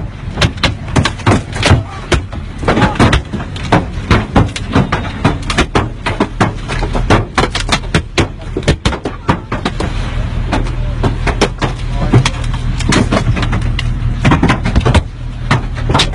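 Hail pelting a car, many dense, irregular sharp knocks on the body and glass, with a low steady hum underneath that grows stronger about ten seconds in.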